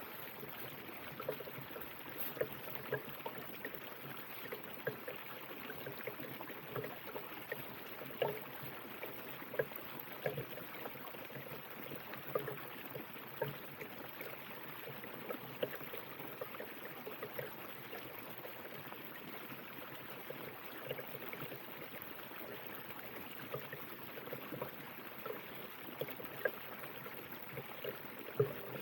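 A river's running water: a steady rush with frequent small gurgles and splashes.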